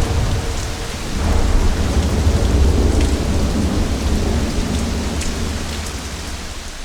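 Steady heavy rain with a low rolling rumble of thunder, swelling about a second in and then slowly fading out.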